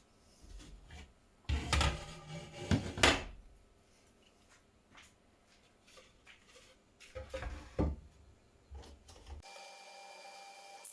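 Wooden and metal parts being handled in a workshop: two spells of rubbing and scraping, each ending in a sharp knock as a part is set down, then a faint steady hum near the end.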